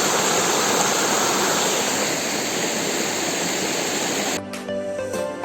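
Steady rush of a waterfall. About four seconds in it cuts off suddenly, and background music with plucked notes takes over.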